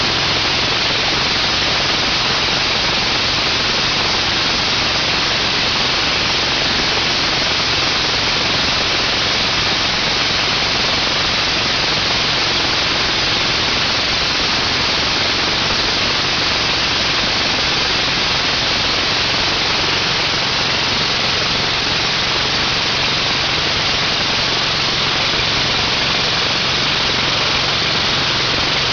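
Belt-driven gas pressure washer running steadily on its 15 hp Kohler Command Pro air-cooled OHV engine, with a steady hiss over the engine note. The exhaust is very loud, which the owner says needs some exhaust work.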